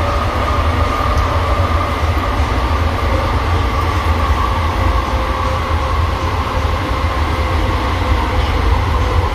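JFK AirTrain car running on its elevated guideway, heard from inside the car: a steady low rumble with a faint steady whine from the drive.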